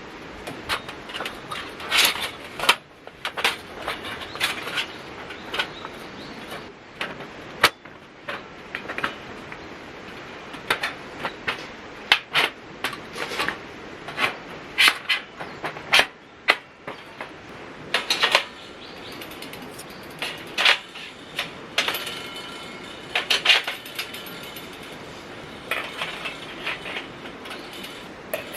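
Irregular sharp clinks and knocks of camping gear being handled and put together, several a second at times, with short gaps between.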